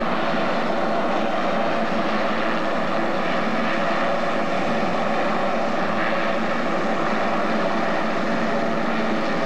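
Aircraft engines running with a steady, even noise that neither rises nor falls.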